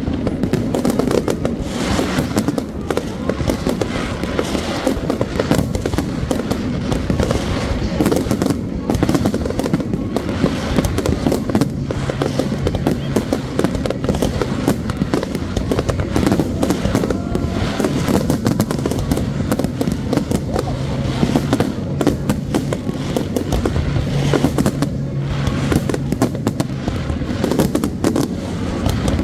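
Fireworks going off continuously: a dense, unbroken run of bangs and crackles.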